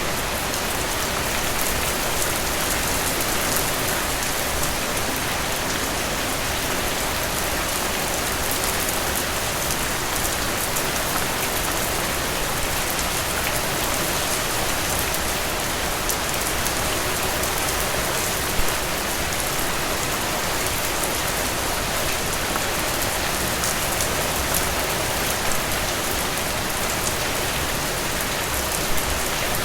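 Steady rain, a dense hiss full of fine drop ticks, with a few louder drips standing out about two-thirds of the way through and near the end.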